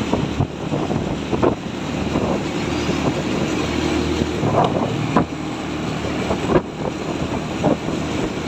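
Truck engine running, with wind buffeting the microphone and a few short knocks.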